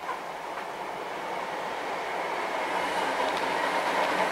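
Electric multiple unit train running along the track past the platform, growing steadily louder, with a steady high whine over the wheel noise and a few light clicks near the end.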